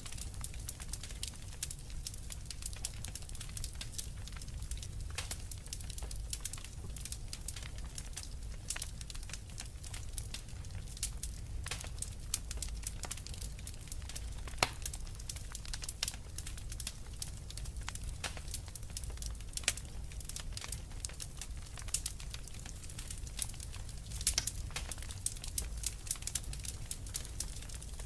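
Fireplace fire crackling: a continual scatter of sharp pops and snaps over a steady low rumble.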